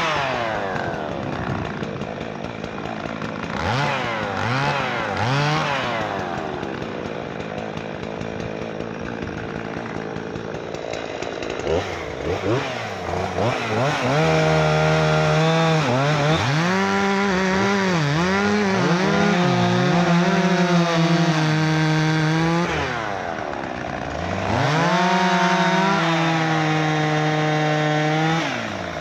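Two-stroke chainsaw cutting wood: at first the engine revs up and falls back in short blips, then from about halfway it holds long runs at full throttle, its pitch sagging briefly as the chain loads up in the cut, easing off for a moment near the end of the second run.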